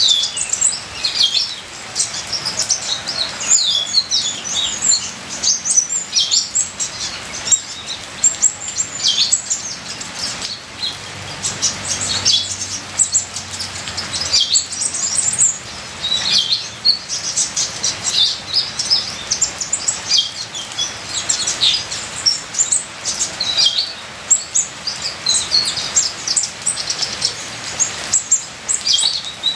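Kolibri ninja, a sunbird, singing a fast, dense, nearly unbroken run of high, thin chirps and twitters, over a faint steady hiss.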